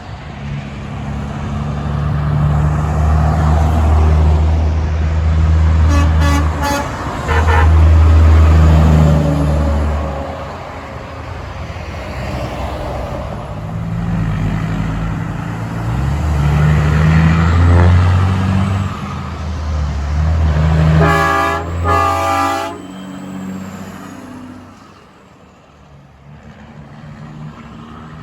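Heavy trucks driving past with a low engine rumble that swells and fades as each one goes by, and truck air horns sounded: a few short toots about six seconds in, then two longer blasts past the twenty-second mark.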